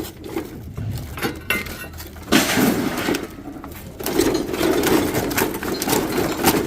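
Scrap being rummaged through and sorted by hand: clinking and clattering of small metal and glass items, with two longer stretches of rustling and clatter.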